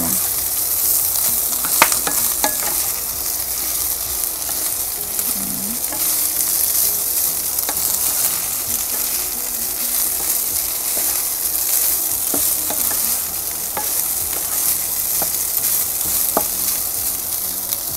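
Fried rice with diced luncheon meat and mixed vegetables sizzling steadily in a hot nonstick pan as it is stirred and tossed with a wooden spatula. A few sharp taps of the spatula on the pan sound through it, two near the start and one near the end.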